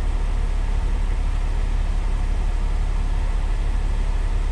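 Semi-truck diesel engine idling, a steady low rumble that does not change.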